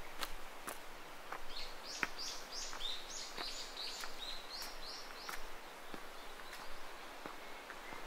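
A small bird singing a run of short, high, repeated notes, about three a second, for a few seconds through the middle. Footsteps on a path tick along at a steady walking pace underneath.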